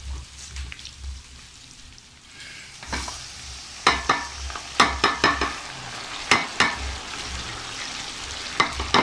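Beef frying and sizzling in oil in an aluminium pot. The sizzle grows louder a few seconds in, and from about four seconds on there are sharp metallic knocks and clinks as grated tomato is tipped in from a strainer and utensils strike the pot.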